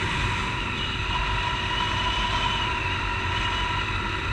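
Honda CG Titan 150 single-cylinder motorcycle engine running steadily at cruising speed, heard through a helmet-mounted camera with heavy, steady wind rumble on the microphone.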